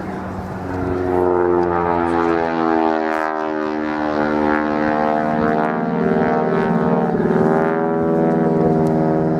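Avro Anson's two Armstrong Siddeley Cheetah radial engines and propellers running in a steady drone as the aircraft flies past. It grows louder about a second in and dips briefly in pitch about seven seconds in.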